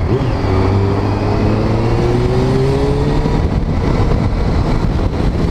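Motorcycle engine running under a steady pull, its pitch rising slowly for about three seconds as the bike accelerates, over continuous road and wind rush.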